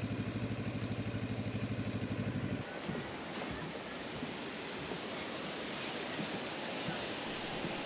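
Motorcycle engine idling with an even pulse, switched off about two and a half seconds in. After that, a steady rushing of river water.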